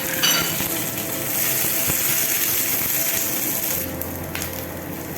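Mustard seeds, sliced onion, chillies and curry leaves sizzling and crackling in hot oil for a tempering, with a short clatter near the start. The sizzle eases about four seconds in.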